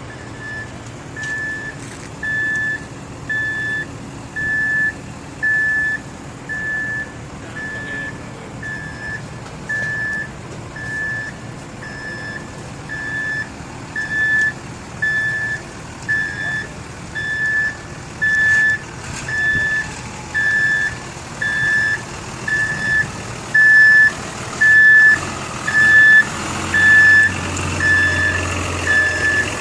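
Truck reversing alarm beeping about once a second, one steady high tone, over the truck's engine running; the engine gets louder near the end.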